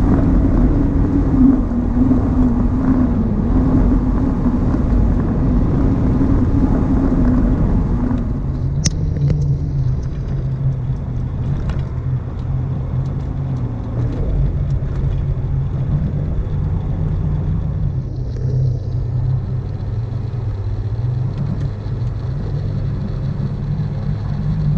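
Vehicle driving, with steady engine and road rumble. The engine note drops to a lower pitch about eight seconds in.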